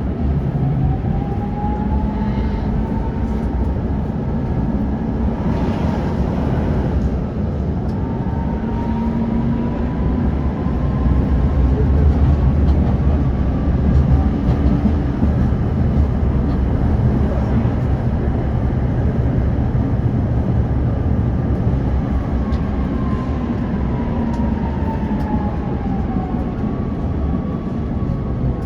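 Tram running on rails: a steady low rumble of wheels and running gear, with an electric motor whine that rises as it gathers speed near the start and falls as it slows toward the end.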